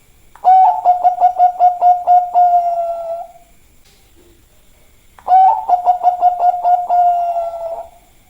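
Bangkok-type zebra dove (perkutut) singing two songs. Each is a quick string of short staccato coos, about four or five a second, that runs into a longer held coo. The second song starts about five seconds in.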